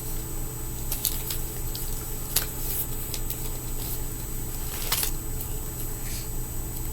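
Small, scattered clicks and handling noise of fingerboard parts as spacers and wheels are fitted onto a truck's axles, over a steady low background hum.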